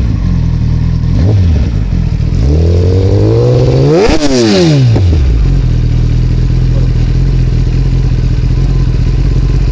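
Kawasaki ZX-10R superbike's inline-four engine idling, blipped briefly about a second in. It is then revved hard once, rising to a peak near the middle with a burst of crackle from the exhaust, before dropping back to a steady idle.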